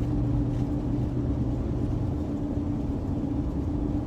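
Steady car cabin noise at highway speed, about 45 mph: tyres and engine droning with a steady low hum.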